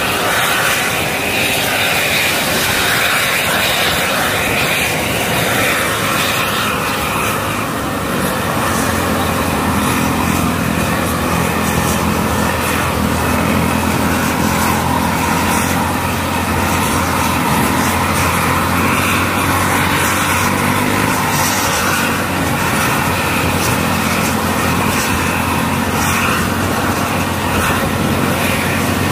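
Steady vehicle engine noise, with a low steady hum coming in about eight seconds in and holding to the end.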